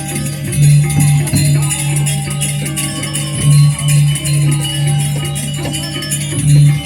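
Balinese gamelan music accompanying a Calonarang dance-drama, with a dense jingling shimmer of cymbals over a low humming tone that pulses on and off.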